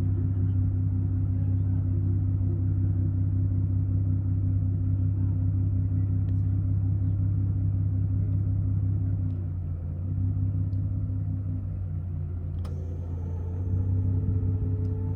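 Toyota Crown Royal's V6 engine idling steadily with a low, even hum. About ten seconds in the idle note dips briefly, then comes a single sharp click and a faint steady whine over the idle near the end.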